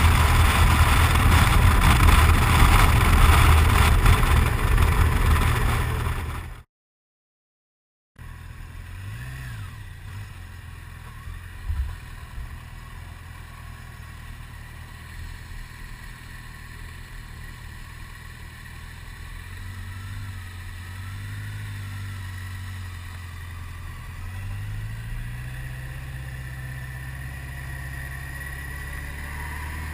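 Motorcycle on the road: loud wind rush over the engine, broken off abruptly about six seconds in. After a short silent gap a quieter engine drone returns, its pitch rising and falling several times as it speeds up and changes gear, with one sharp click a few seconds after the gap.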